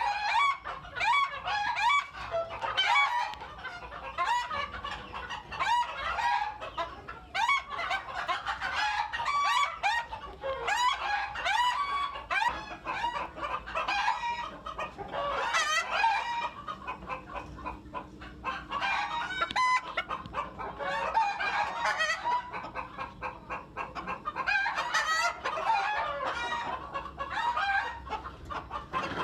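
A flock of bantam chickens clucking, with roosters crowing several times over the continuous clucking.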